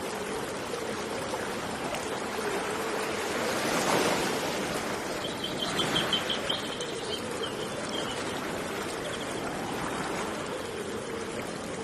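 Flowing river water, a steady rushing and trickling with a louder surge about four seconds in. A bird gives a quick trill of short high notes about halfway through.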